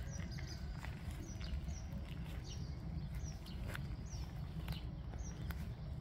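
Small bird repeating a short, high, slightly falling chirp over and over, with a few sharp clicks and a steady low rumble beneath.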